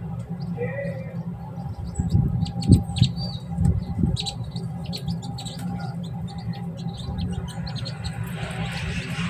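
Small birds chirping in short, scattered calls over a steady low hum, with a few louder low rumbles about two to four seconds in.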